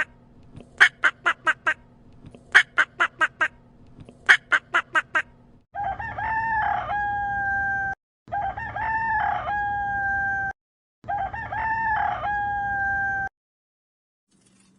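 A duck quacking in quick runs of four to six quacks, then a rooster crowing three times in a row, each crow long and drawn out.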